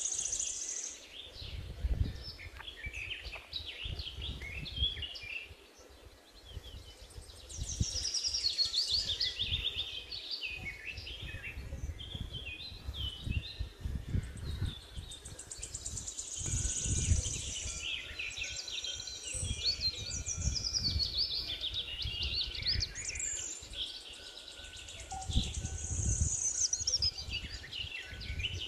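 Songbirds singing in bouts of a few seconds each, quick chirps and trills with short pauses between, over an uneven low rumble.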